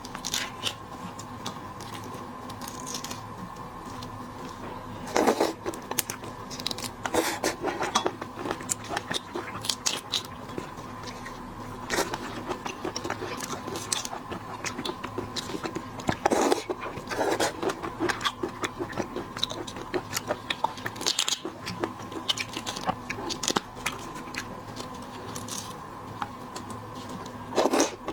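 Shrimp shells cracking and crunching as they are peeled and bitten: a scattered run of sharp crackles with louder crunches now and then, over a faint steady hum.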